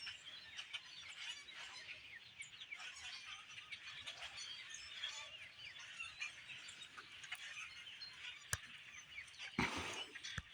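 Faint, continuous chatter of a large flock of birds: many short chirps and calls overlapping. There is a single sharp click near the end.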